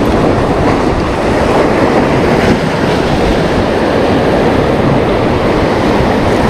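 Heavy high-tide surf breaking and washing against the shore: a loud, continuous rush of churning seawater with a deep rumble underneath.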